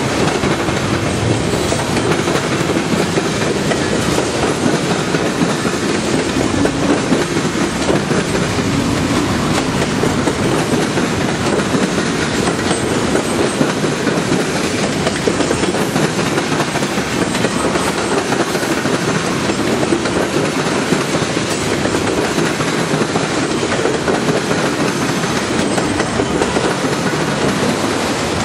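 Train cars rolling steadily past, their steel wheels clicking over the rail joints with a constant rumble.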